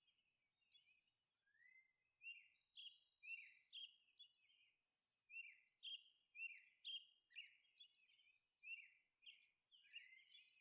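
Faint bird chirps: a string of short, high twittering notes, some sweeping in pitch, repeating every half second or so.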